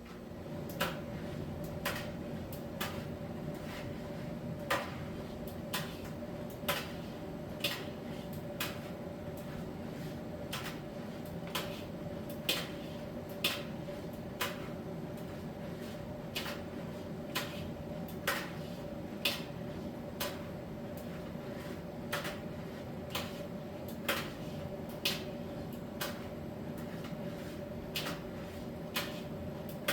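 Miele T1 heat-pump tumble dryer running mid-cycle: a steady machine hum as the drum turns, with a light click or knock about once a second as the load tumbles. The level steps up right at the start, as the drum starts turning again.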